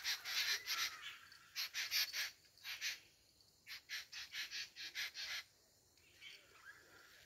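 A bird calling in harsh, rasping notes, in quick runs of about four or five a second, in several bursts, with fainter chirps near the end.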